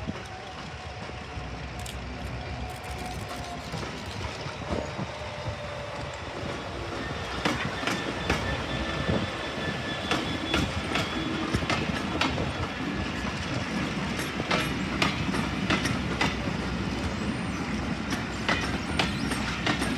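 Heritage diesel-hauled train running past, with a steady rumble that grows louder and the wheels clicking over rail joints in quick pairs from about seven seconds in.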